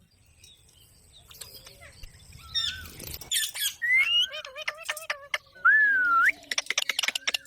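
Pet parrot calling. After a quiet start comes a run of squawks, chirps and sharp clicks, with a long whistled call that dips and then rises near the end.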